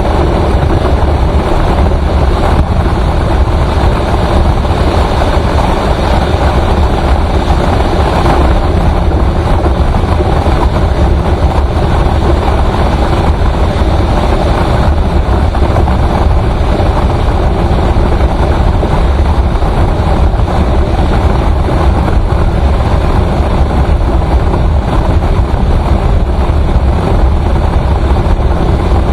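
Steady, loud noise of a vehicle driving on a highway: engine and road noise with a strong low rumble that holds even throughout.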